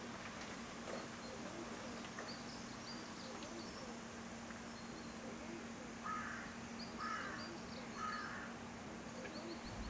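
Quiet outdoor ambience with a bird calling three times, about a second apart, starting about six seconds in, and smaller birds chirping faintly throughout.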